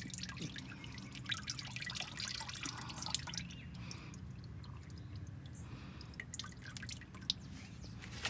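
Engine oil dripping irregularly from the just-removed oil filter's mount, with a low steady hum underneath.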